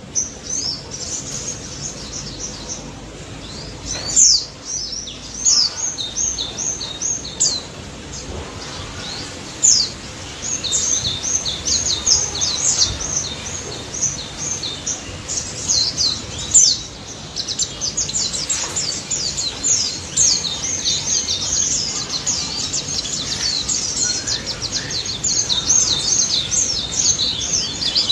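White-eye (pleci) singing a long, fast run of short, high, sharply sliding notes, many per second, with a brief lull about a third of the way in.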